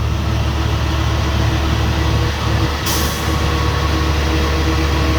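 Jet fuel truck's engine and fuel pump running steadily, with fuel flowing through the pre-check control valve after it has reopened. A short, sharp hiss breaks in about three seconds in.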